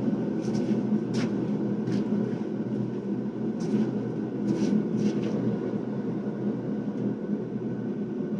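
A forge running with a steady low rumble while the steel heats, with a few faint light clicks now and then.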